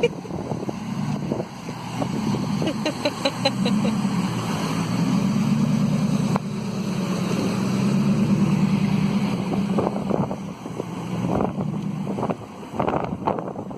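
An engine running steadily, its pitch wavering, with wind buffeting the microphone. A quick run of about six ticks comes around three seconds in.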